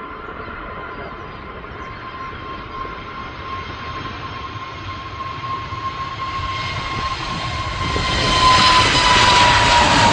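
Airbus A320 jet engines at takeoff power, a steady high whine over a rushing roar that grows louder, with a sharp jump in loudness about eight seconds in and the whine dropping slightly in pitch near the end.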